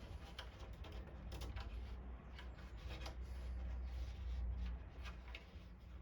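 Light handling noises: a scattering of small, faint clicks and knocks over a low, steady rumble.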